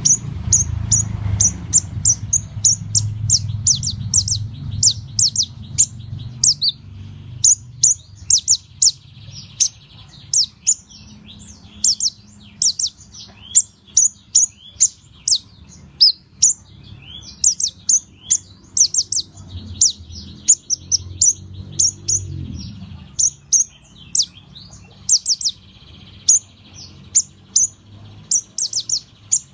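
Small caged songbird, a kolibri ninja (konin), chirping in rapid runs of short, sharp, high notes that go on almost without pause, over a low hum that fades out about three-quarters of the way through.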